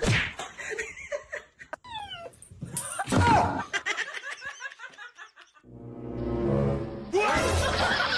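Human laughter mixed with background music, with a few short pitched calls or squeals in between.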